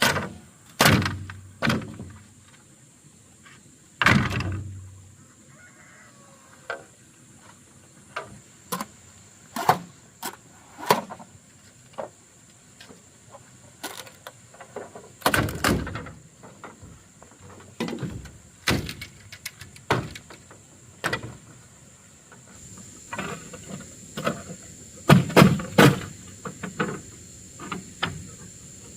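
A run of irregular knocks and clatters, some single and some in quick clusters, with a few heavier thuds, over a steady high-pitched insect drone.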